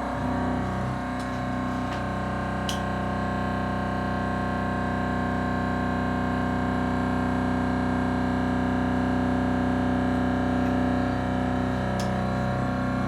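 Thermoacoustic engine running: a steady buzzing hum of several sustained tones that hold unchanged throughout, with a few faint clicks.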